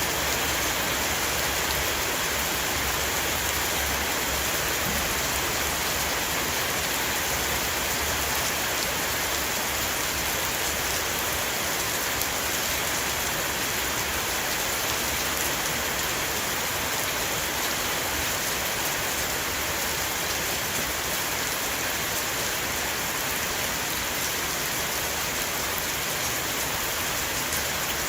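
Heavy rain shower falling steadily on a roof, a dense even hiss of many drop impacts.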